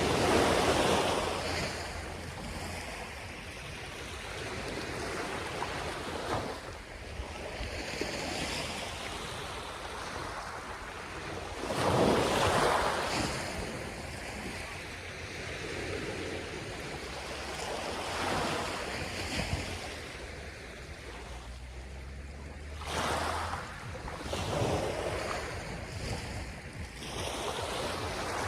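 Sea waves breaking on a sandy beach at high tide, surging louder every few seconds, with wind rumbling on the microphone.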